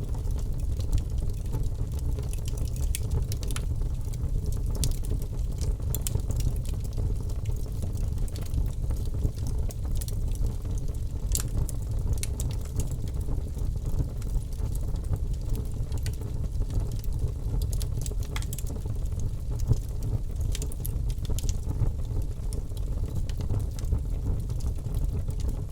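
Birch logs burning in a fireplace: a steady low rumble of flame with scattered sharp crackles and pops throughout.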